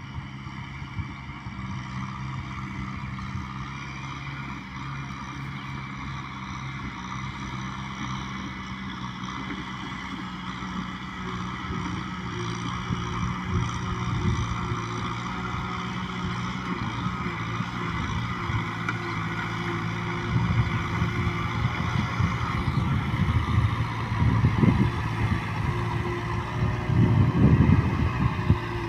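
Kubota M6040 tractor's diesel engine running steadily under load. After about twenty seconds it swells louder in irregular surges.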